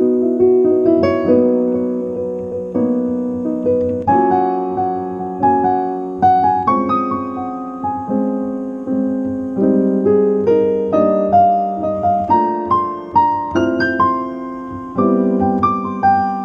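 Solo piano music: a gentle melody over chords.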